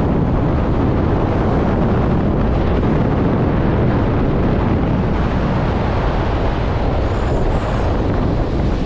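Strong gusting wind buffeting the microphone: a loud, steady, low rumbling roar.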